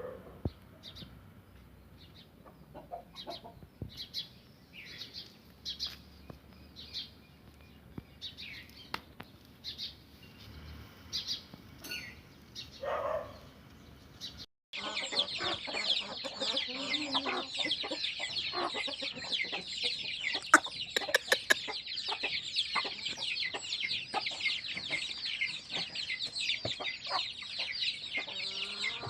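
Aseel chickens clucking with scattered short calls, one longer call near the middle. Then, after an abrupt cut, a dense unbroken chorus of rapid high chirps from many birds.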